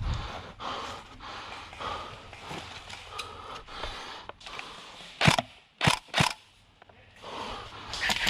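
Footsteps crunching through dry woodland leaf litter, with gear rattling and scraping. A little past the middle come three sharp, loud cracks in quick succession.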